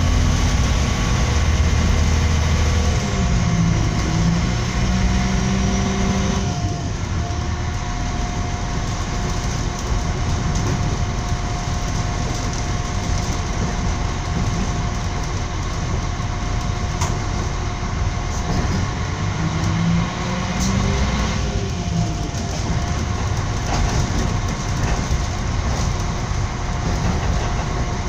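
Train running along the rails, heard from inside the carriage: a steady rumble with a held whine, and a low drone that shifts in pitch a few seconds in and again about twenty seconds in.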